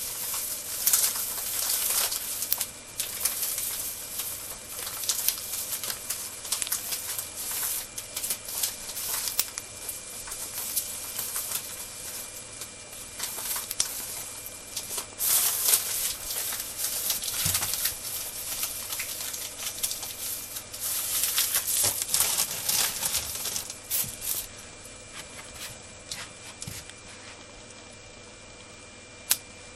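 Cockatiel biting and crunching dry soba noodles into crumbs, a dense run of small irregular crackling snaps that stops about 24 seconds in, leaving only a few isolated clicks.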